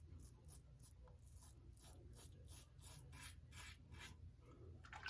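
Faint, rhythmic scraping of a Wolfman WR2 safety razor with a new Nacet blade cutting through about 36 hours of stubble, short strokes about three a second.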